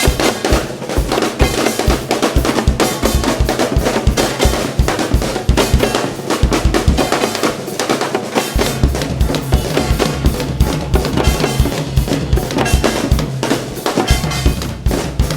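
Live band music driven by drums, with a steady, regular low drum beat under a dense mix of instruments. About two-thirds of the way through the low beat drops out briefly, then comes back stronger over a steady bass line.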